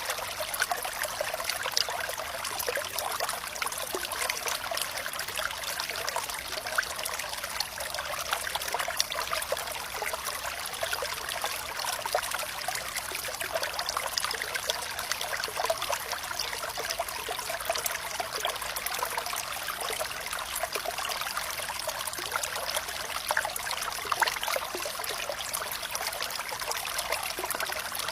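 Flowing water trickling steadily, with a constant patter of small splashes and almost no low rumble.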